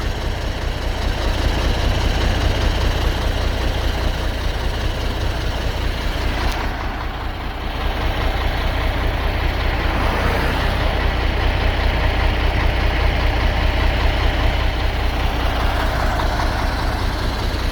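Heavy truck's diesel engine idling steadily while standing in traffic, with a single click about six and a half seconds in.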